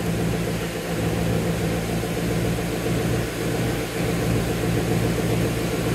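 Supercharged Ford Mustang engine idling steadily, heard from inside the cabin.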